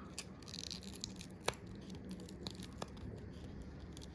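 Faint scraping and scattered light clicks of a tool prying a glued-in battery out of an iPhone XR, with one sharper click about a second and a half in. The battery's adhesive pull strips have snapped, so the battery is being forced out against the glue.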